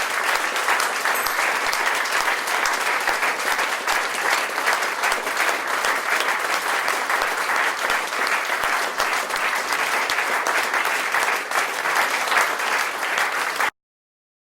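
Audience applauding, dense and steady clapping that cuts off abruptly near the end.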